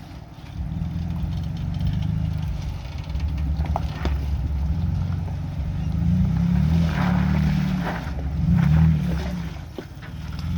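Off-road Jeep engine running at low speed on a rough trail, its rumble swelling and easing with the throttle, with a few short knocks along the way.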